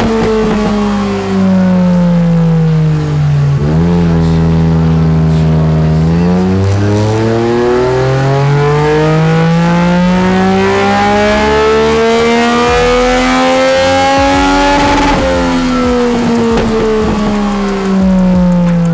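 Yamaha Tracer 900's three-cylinder engine on a chassis dyno after an ECU flash tune. The engine note falls as it coasts down, holds steady for a couple of seconds, then climbs smoothly through a full-throttle pull for about nine seconds before dropping away as the run ends.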